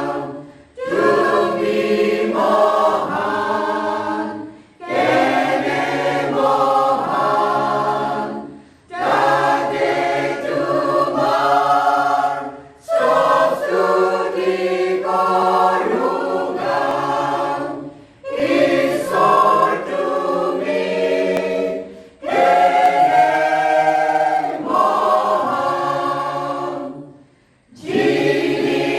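A choir singing in sustained phrases of about four seconds, each followed by a short breath pause.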